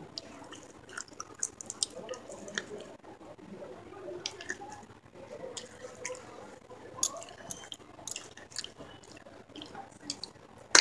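Someone chewing and biting pieces of a broken terracotta clay pot close to the microphone: irregular small crunches and mouth clicks, with a sharper click near the end.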